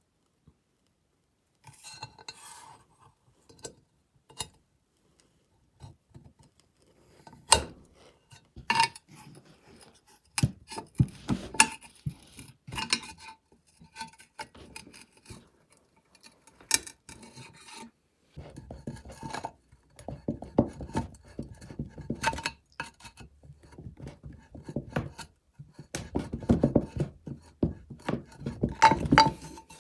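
Metal parts of an antique coal iron being handled and worked by hand: scattered clinks and knocks, some with a short metallic ring, and stretches of scraping and rubbing that grow busier in the second half.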